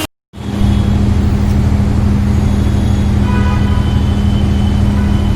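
Motor vehicle engine running steadily, a constant low hum with a deep rumble beneath it. A faint, brief higher tone comes about three seconds in.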